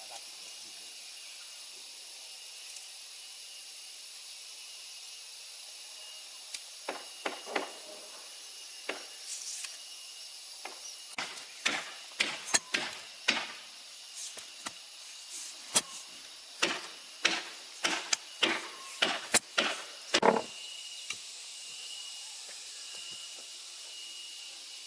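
A steady high hiss, with about twenty sharp, irregular knocks or strikes from about seven seconds in to about twenty seconds in; the last of them is the loudest.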